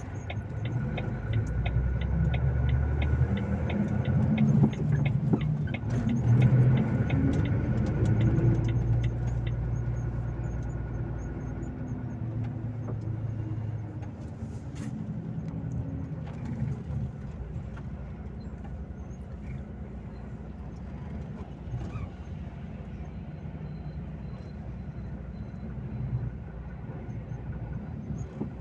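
Volvo FH 460 truck's 13-litre straight-six diesel running under way. Its note climbs from about six to ten seconds in as it pulls, then eases off into a steadier, quieter drone. A regular ticking runs through the first few seconds.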